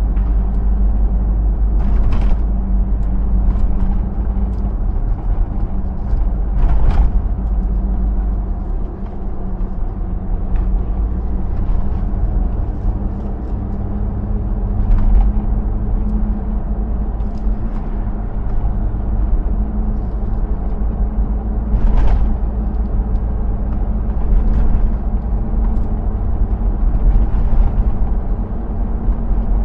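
Hummer H2's 6.0 L V8 running at a steady cruise, with heavy low road rumble. A few short sharp knocks at irregular intervals.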